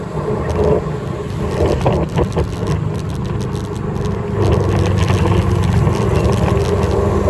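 A vehicle engine running steadily while on the move, with road and wind noise. Scattered clicks and rattling knocks come between about two and four seconds in.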